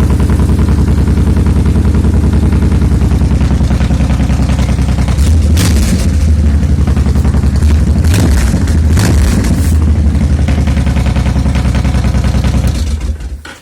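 Honda VTX 1800's big V-twin engine running with an even, rapid pulsing beat, with a few short throttle blips in the middle; it shuts off near the end and the sound dies away.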